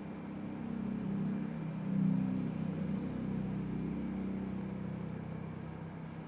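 A low, steady mechanical hum that swells over the first two seconds and slowly fades, like a motor running.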